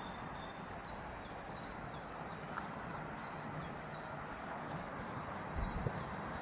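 A walker's footsteps on the towpath with small birds chirping over and over in short, falling notes, over a steady outdoor background hum.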